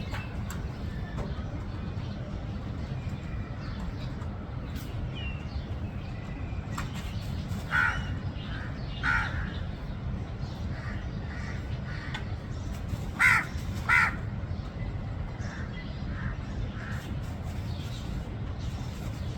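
Crow cawing: four loud separate caws, two about a second apart some eight seconds in and a closer pair about five seconds later, with fainter calls between, over a steady low background rumble.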